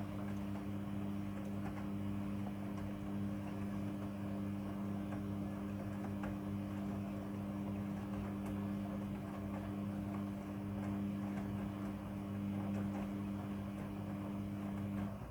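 Midea front-loading washing machine running with a steady low hum.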